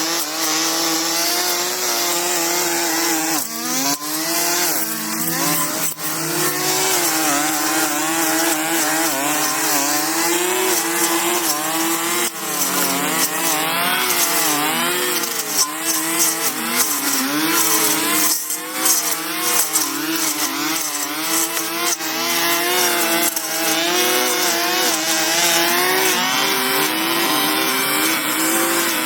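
A small engine-driven tool running at high speed throughout, its pitch dipping and rising again and again as the load changes.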